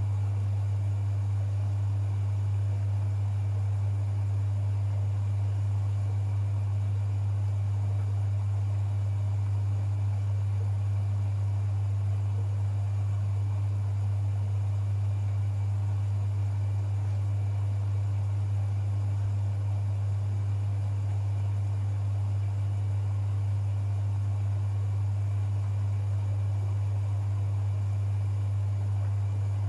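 Privileg 5020 front-loading washing machine running on an Easy-Care 40° cycle: a steady low hum over a soft hiss, unchanging throughout.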